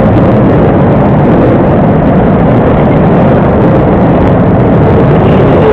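Pit bike engines running hard in a race, heard as loud, steady, rough engine noise with no let-up.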